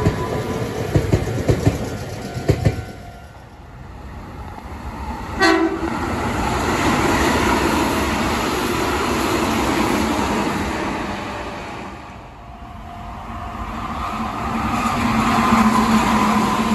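Meitetsu electric trains passing: wheels clacking over rail joints in the first few seconds, a short horn blast about five and a half seconds in, then the steady rush of a long train going by, which fades at about 12 seconds and builds again near the end with a steady motor hum.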